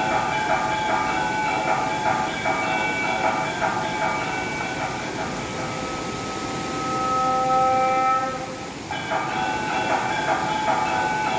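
Aarti bells ringing in a fast, steady rhythm. About two-thirds of the way through the ringing stops for a couple of seconds while a single horn-like note is held, then the ringing resumes.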